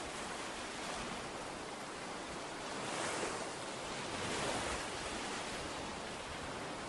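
Surf breaking on a beach: a steady wash of waves that swells twice near the middle.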